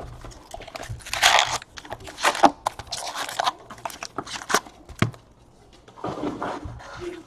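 Packaging being torn open and crinkled by hand: a trading-card box and its foil packs ripped and rustled in a series of short tearing bursts with small clicks.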